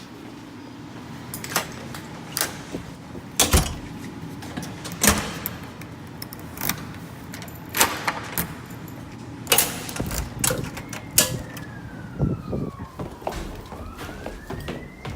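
Scattered sharp clicks and knocks over a low steady hum. About eleven seconds in, an emergency vehicle's siren starts wailing, its pitch sliding slowly down, back up, and down again.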